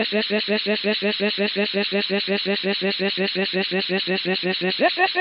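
A cartoon sound effect: a steady, fast-pulsing buzzy trill at one pitch, about eight pulses a second, with a brief rising-then-falling glide near the end.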